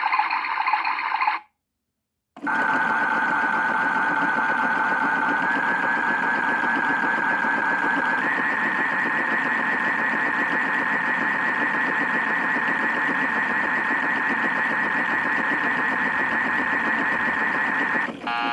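Battery-powered toy washing machine running its spin cycle: after a short sound and a brief pause, a steady buzzing whirr starts that steps up in pitch twice, like a drum speeding up. An electronic beep starts right at the end.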